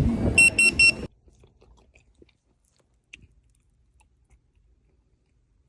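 Two quick runs of four high electronic beeps over background din, cut off abruptly about a second in. Then very quiet, faint chewing.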